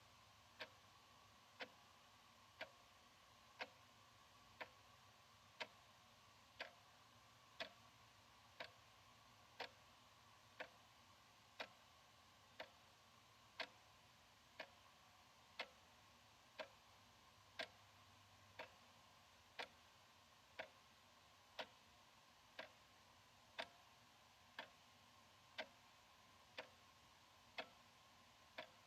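Analog wall clock ticking steadily, one faint, sharp tick about every second.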